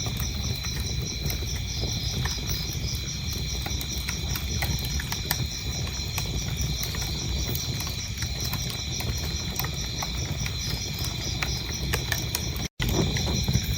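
Wood fire crackling with scattered sharp pops over a steady low rumble, with crickets chirping in an even pulsing rhythm. The whole sound cuts out for a split second near the end, then resumes.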